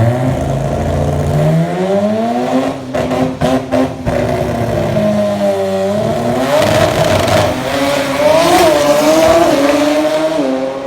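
Mazda RX-3's 13B rotary engine revving hard. Its pitch climbs over the first two seconds, a few sharp pops break in about three to four seconds in, and the pitch drops near the middle, then rises and wavers again.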